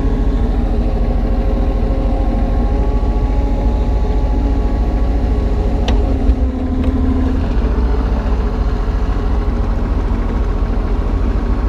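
Kubota U35-3 mini excavator's diesel engine running steadily. A single sharp click comes about six seconds in.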